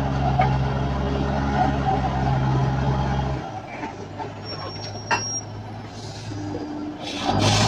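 Heavy logging truck engine running steadily, then dropping off sharply about three and a half seconds in to a low rumble, with a brief click and a short high whistle around five seconds.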